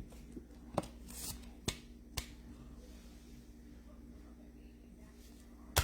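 Trading cards being handled: a few sharp clicks and snaps, four in the first two and a half seconds and one more near the end, over a faint steady hum.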